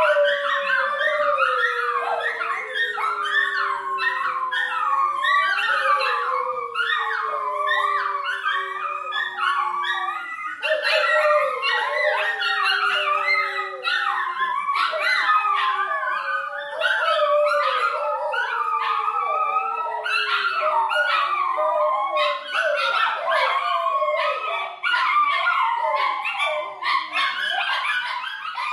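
A group of dogs howling together: many overlapping howls rising and falling in pitch, with short higher yelps mixed in. The chorus dips briefly about a third of the way in, then carries on.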